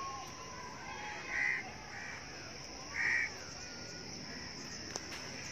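A bird calling: two loud short calls about a second and a half apart, with a fainter call between them and faint chirps, over a steady high hiss.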